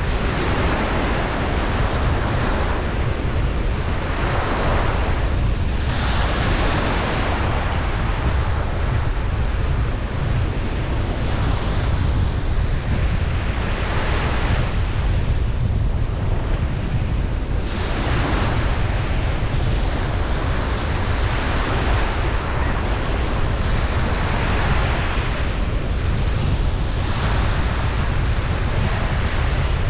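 Ocean waves breaking and washing up on a beach, a surge of surf every few seconds over a steady low rumble, with wind buffeting the microphone.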